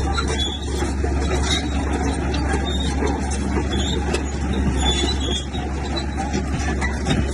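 Bulldozer's diesel engine running steadily, a deep continuous drone with scattered knocks over it.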